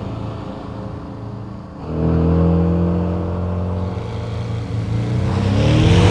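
Porsche 718 Boxster GTS's turbocharged flat-four engine pulling under load. It is faint at first and louder and steady from about two seconds in, then revs up near the end as the car comes close.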